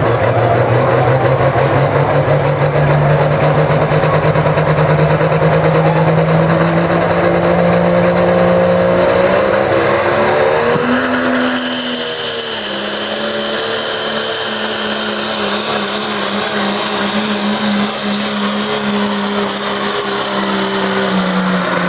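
Diesel pickup truck engine running flat out while it pulls a weight-transfer sled. Its pitch climbs slowly for the first ten seconds or so and dips briefly about eleven seconds in. It then holds steady with a high whistle over it, and begins to fall away at the very end.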